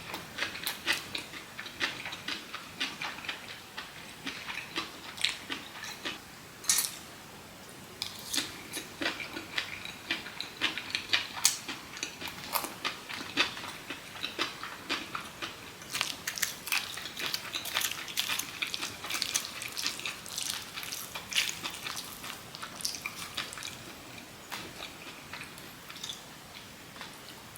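Close-miked chewing and wet mouth sounds of a person eating, a steady run of irregular smacks and clicks.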